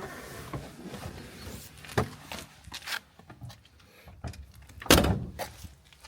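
A car door being worked: a few latch clicks and knocks, then a heavy thud as it shuts about five seconds in.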